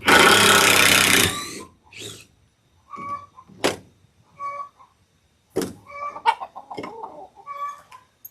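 Hens clucking in short calls several times, after a loud noisy burst of about a second at the start. A couple of sharp knocks fall between the clucks.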